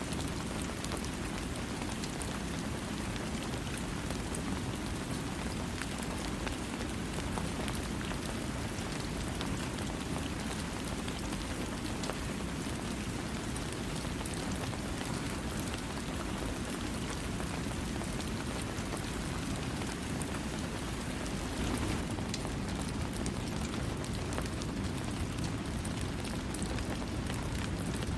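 Steady rain falling without thunder, an even wash of noise strongest in the low range with scattered fine drop ticks above it.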